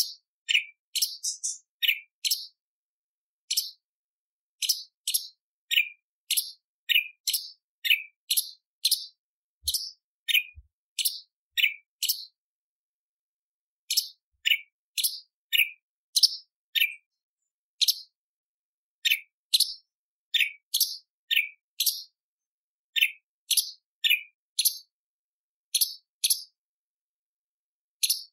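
Cucak cungkok, a leafbird, calling over and over with short, sharp notes that drop in pitch, about one or two a second, broken by a few brief pauses.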